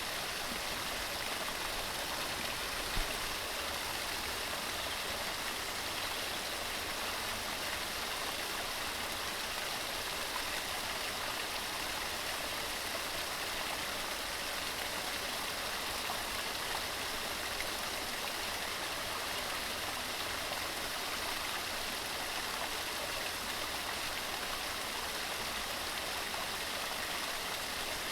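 Waterfall: water tumbling over rocks in a steady, even rushing hiss. There is one brief low thump about three seconds in.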